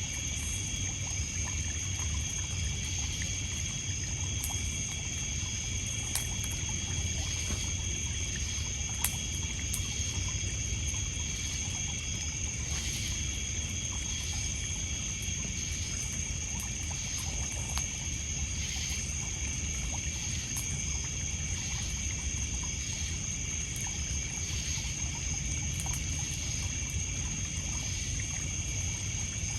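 Night ambience of insects trilling steadily, with water trickling and lapping on a pebble shore and the scattered crackle of a wood campfire.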